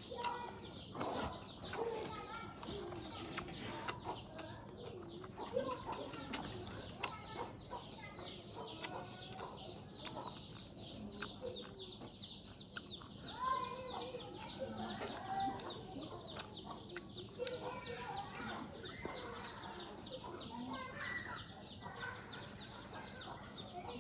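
Chickens clucking on and off, over a steady high-pitched buzz.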